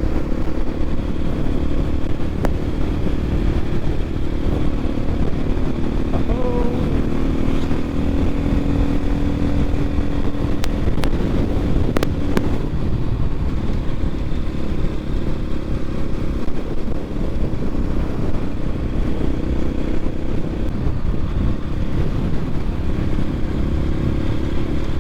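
Dirt bike engine running steadily at cruising speed while riding, with a continuous low rumble of wind and road noise. There are a few brief sharp ticks about halfway through.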